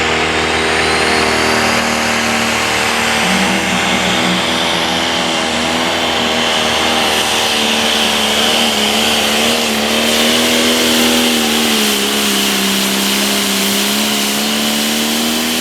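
Turbocharged diesel engine of a John Deere Limited Pro Stock pulling tractor running flat out during a pull, its pitch holding high and wavering slightly as the load changes. A high turbo whistle rises over the first couple of seconds and carries over the engine.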